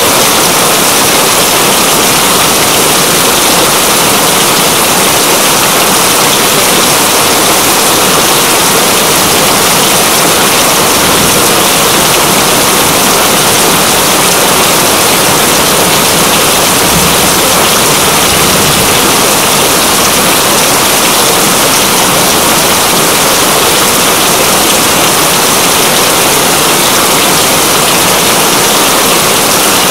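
Steady heavy rain: a loud, even hiss that does not change.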